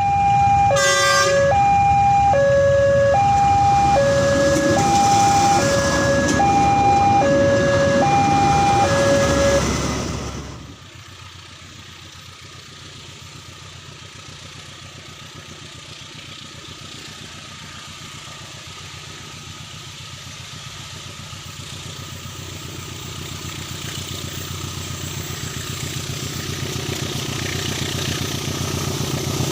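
A railway level-crossing warning alarm sounds two alternating electronic tones, high and low, about once a second, over the loud rumble of a passing train. About ten seconds in, both stop abruptly. A diesel locomotive's low engine hum follows, growing steadily louder as it approaches.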